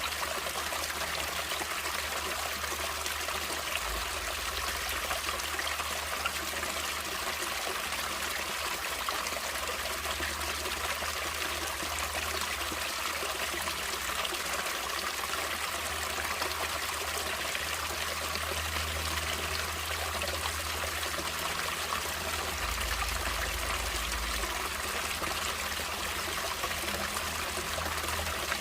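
Natural water running steadily, an even rushing hiss with no pauses or changes.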